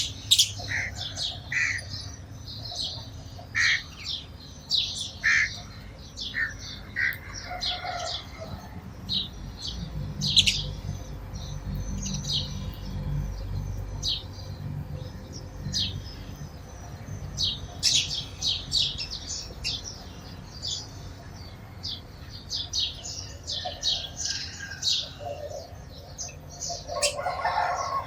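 A flock of sparrows chirping: many short, irregular chirps that overlap throughout, with a low rumble in the background around the middle.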